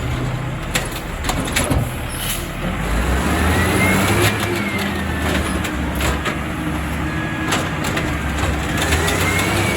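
Refuse truck's engine running and being revved, with a high whine that rises and falls twice.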